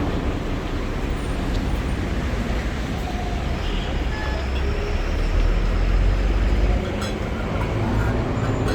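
City street traffic: a steady wash of engines and tyres, with a heavier vehicle's low rumble swelling about five seconds in and dropping away sharply just before seven seconds.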